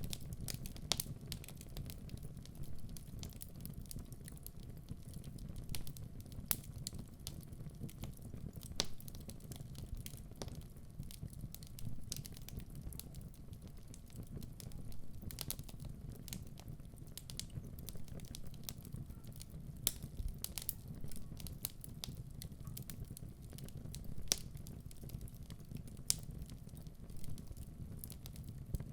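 Wood fire burning in a fireplace: a steady low rumble of the flames under many irregular sharp crackles and pops from the burning logs.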